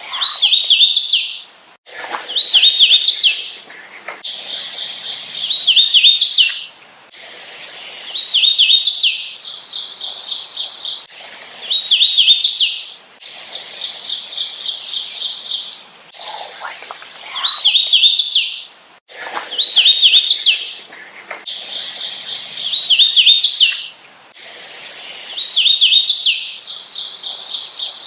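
Hooded warbler singing, over and over: a ringing phrase of slurred whistled notes that ends in an emphatic rising note, about every two to three seconds, with quick runs of repeated notes in between.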